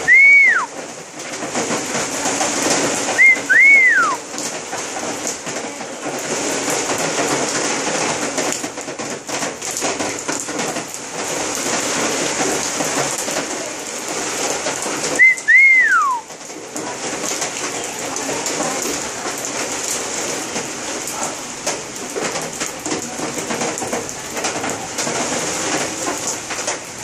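Rain falling steadily with an even hiss. Three short whistles cut through it, at the start, about three and a half seconds in, and about fifteen seconds in; each flicks up high and then slides down.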